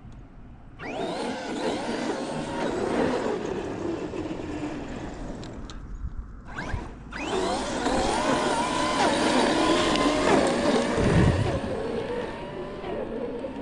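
Large electric RC monster truck (Traxxas XRT/X-Maxx) running hard, its brushless motor whining and changing pitch with throttle, in two runs: the first from about a second in, a brief drop near six seconds, then a second run that eases off near the end.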